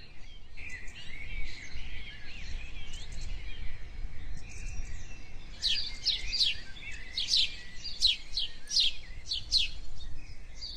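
Small birds chirping and twittering over a low steady rumble. About halfway through, a run of quick, sharp, downward-sliding chirps sets in, about three a second.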